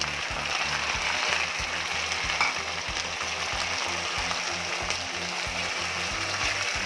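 Oil sizzling in a kadhai as sliced tomatoes fry with browned onions and green chillies, stirred with a wooden spatula. The sizzle runs as a steady hiss.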